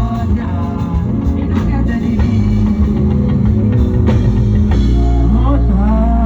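Live band music with drum kit, bass and guitar playing loudly, no lead vocal.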